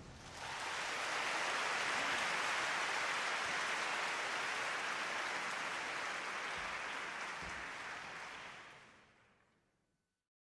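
Audience applause after a band piece ends, a dense steady clapping that fades away about nine seconds in and then stops.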